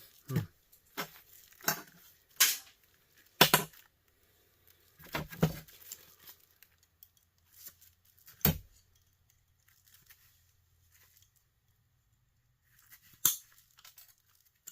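Scattered clicks and clacks of plastic housing pieces and small metal parts being pried apart and handled as a small plastic electric heater is dismantled, about eight sharp knocks over the first nine seconds, then a pause and one more near the end.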